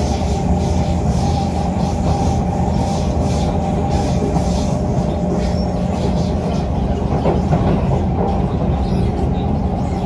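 Kawasaki C151 metro train running at steady speed, heard from inside the carriage: a continuous rumble of wheels on rail with a steady low hum. A fainter hiss repeats about twice a second in the first half.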